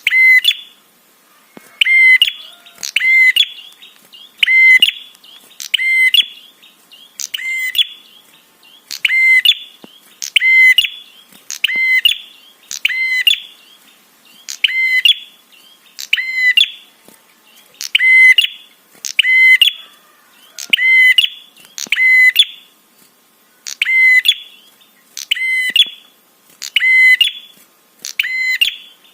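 Prenjak (prinia) lure call: loud, short bursts of rapid sharp notes, repeated evenly a little under once a second, as a recording played to provoke other prenjak into answering.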